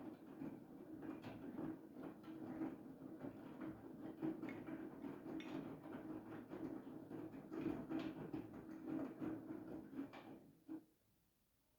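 Siemens iQ700 front-loading washing machine in its main wash: the drum motor hums steadily while the laundry tumbles with soft knocks and water sloshing. The drum stops near the end.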